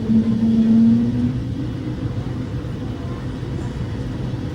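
Airliner cabin noise after landing: a steady low rumble of the jet rolling on the ground, with a steady hum that fades out about a second in.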